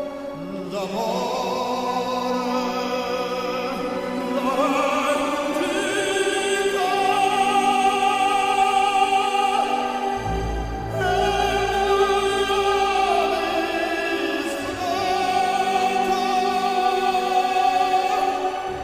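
Operatic singing with orchestral accompaniment: long held notes with vibrato, and a deep bass entering about halfway through.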